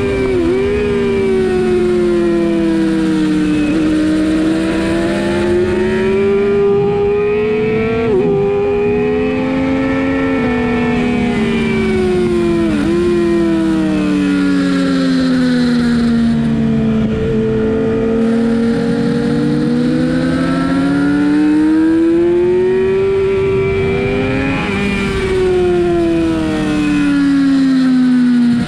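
Sportbike engine under hard riding on a race track, its pitch climbing under acceleration and falling away as it slows, in long sweeps several seconds apart. Brief sharp breaks in the engine note about five times mark quick gear changes.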